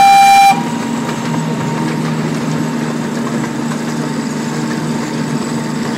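Zoo train's horn finishing a single pitched blast about half a second in, then the steady running noise of the train's engine carrying on.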